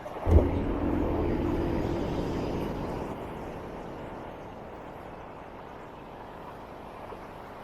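Street traffic noise heard from a moving motorbike, with a louder vehicle passing close about half a second in, its engine tone fading over the next few seconds.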